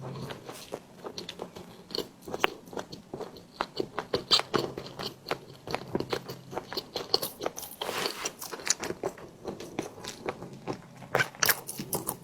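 Close-miked chewing and biting of a tiger skin dessert: wet mouth clicks and small crunchy crackles, coming irregularly and without pause.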